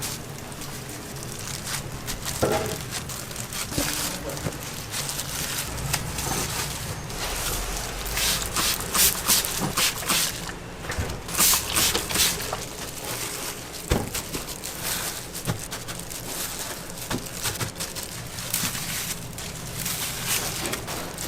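Food-stall kitchen work: repeated bursts of hissing and crackling, with a few scattered knocks and rustles of handling.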